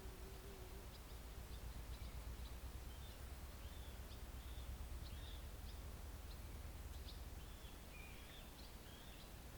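Steady low rumble of distant highway traffic, with scattered short songbird chirps that grow busier near the end.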